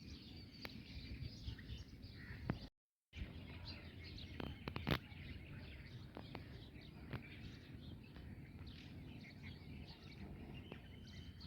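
Bulbuls chirping and calling in quick, busy short notes over a steady low rumble of background noise, with a few sharp clicks.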